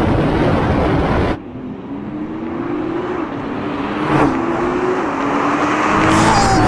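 A Nissan GT-R's twin-turbo V6 accelerating hard from a launch-control start. Loud engine and road noise comes first; then, from about a second and a half in, the engine pitch climbs and drops back at two quick dual-clutch upshifts.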